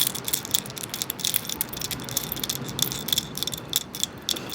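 Seashells clicking and rattling against one another as they are handled, a dense, irregular run of small sharp clicks.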